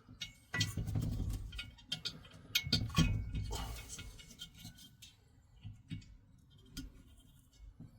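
Hands working metal parts of a diesel heater loose during disassembly: irregular clicks, small metallic knocks and a few dull thuds, busiest in the first half and sparser after.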